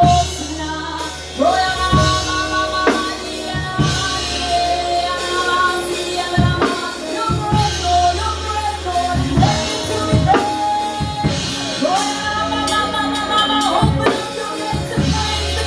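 Live church worship music: singers holding long, sliding notes over a drum kit and a sustained bass.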